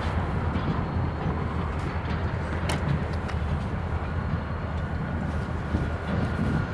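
Diesel locomotive rumbling low and steady while switching cars in a rail yard, with a single sharp click near the middle.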